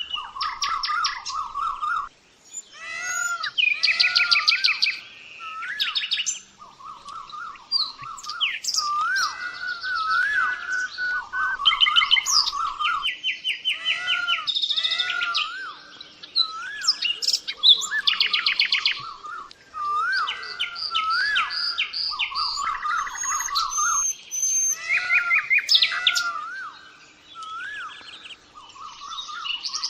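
A songbird singing a varied song of clear whistles and fast trills, in phrases of a second or two with short pauses between them.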